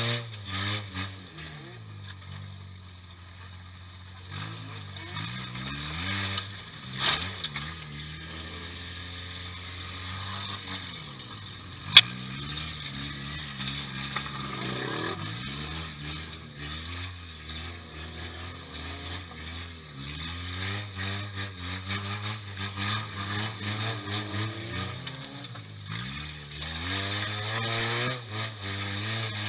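Demolition derby car's engine, heard from inside the cab, revving up and falling back again and again as the car drives and reverses. A single sharp bang of an impact about twelve seconds in, with a few smaller knocks around it.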